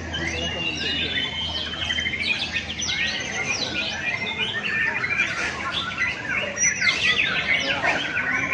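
Many caged contest songbirds singing at once: a dense, unbroken tangle of overlapping whistles, trills and chirps.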